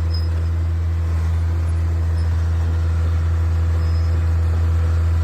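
The diesel engine of a John Deere 750J hydrostatic crawler dozer running with a steady, low drone while the machine is tried out after its forward and reverse PCP coil repair.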